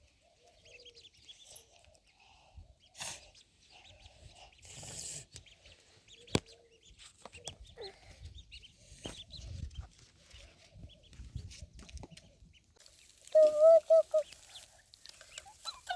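Domestic fowl clucking softly at intervals, with a louder run of calls a little before the end. A single sharp click about six seconds in.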